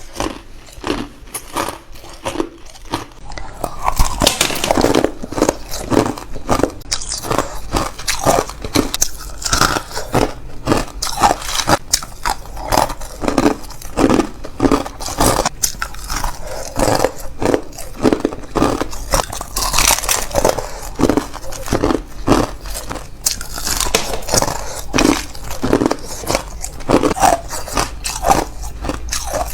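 A person biting and crunching hard ice close to the microphone: sharp, crackly crunches repeating about two or three times a second, louder from about four seconds in.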